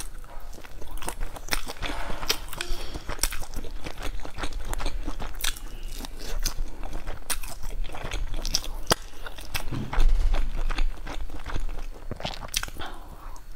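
Close-up chewing and biting of skewered, spice-coated sausage, with many sharp mouth clicks and smacks. A low thump about ten seconds in.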